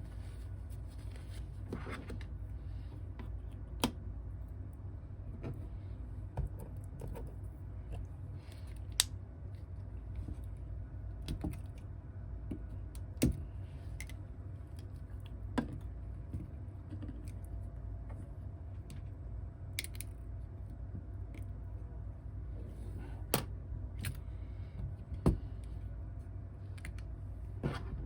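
Small hand tools and parts clicking and tapping on a workbench during an iPhone 8 Plus repair: about ten sharp, separate clicks spread out over a steady low hum.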